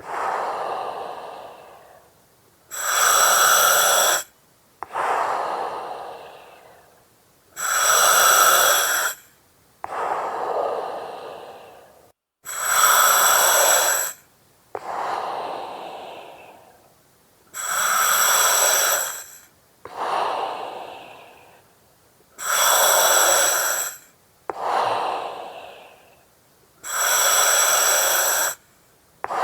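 Slow, regular breathing through an oxygen mask, about six breaths: each a loud hiss of gas through the mask's valve or regulator with a whistling edge, cut off sharply, followed by a softer breath that fades away.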